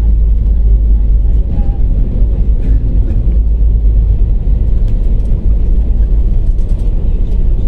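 Airliner rolling out on the runway just after touchdown, heard from inside the cabin: a loud, steady, deep rumble with the spoilers deployed as the plane slows.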